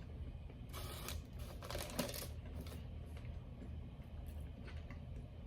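Chewing of dry breaded chicken nuggets: faint crackly chewing and mouth sounds in a few short spells, over a low steady hum.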